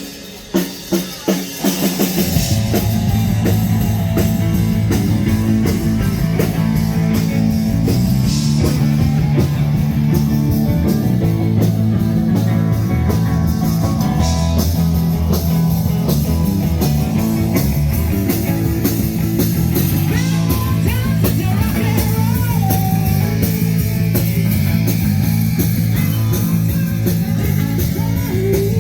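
Rock music: a run of drum hits speeding up, then the full band with drums and electric guitar coming in about two seconds in and playing on steadily.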